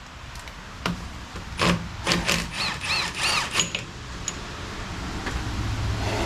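Hand tools clinking and scraping on metal while a pulley's set screws and washer are worked loose, with a few short high squeaks in the middle. A steady low hum builds near the end.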